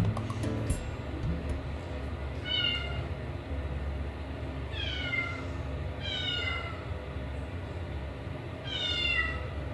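Minuet kitten meowing four times, each call falling in pitch.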